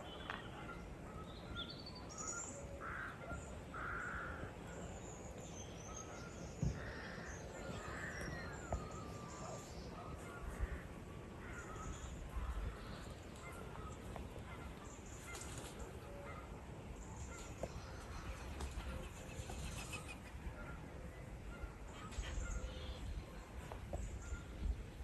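Several birds calling over a steady background: harsh, rasping calls mixed with higher chirps and whistles, coming and going at irregular intervals.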